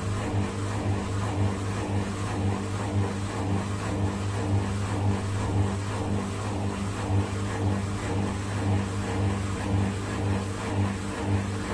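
Bosch WAK282E25 washing machine running with a steady low hum and a faint regular pulsing. The machine is the one that will not spin and shows drive fault E21.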